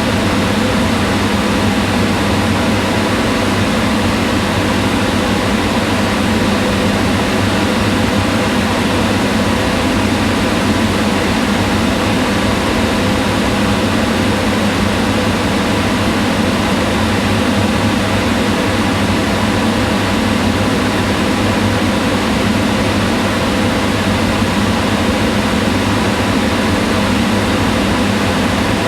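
Kitchen range hood exhaust fan running steadily: an even whoosh of rushing air with a low hum and a few faint steady tones.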